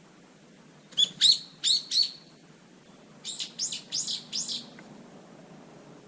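A garden bird calling: two quick runs of sharp, high chirps, about four notes each, the second run starting about two seconds after the first.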